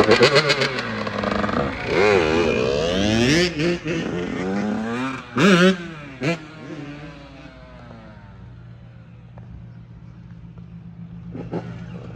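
Dirt bike engines revving, their pitch rising and falling sharply, loudest at the start and again about five and a half seconds in, then fading after about six seconds to a quieter steady low drone.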